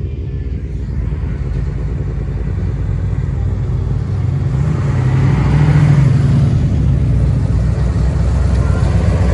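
A motor vehicle's engine running with a low rumble, growing louder and loudest about six seconds in.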